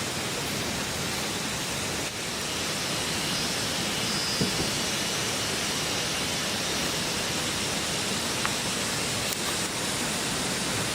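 A steady, even rushing noise with no rhythm or tone, with a faint knock about four seconds in.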